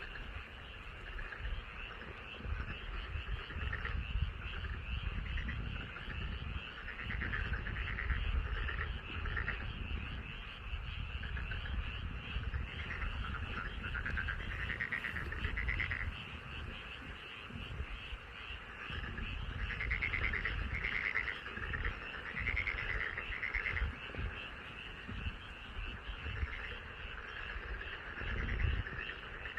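Chorus of many frogs calling at once: dense overlapping rapid croaks, with louder rattling clusters swelling up every few seconds, over a low uneven rumble.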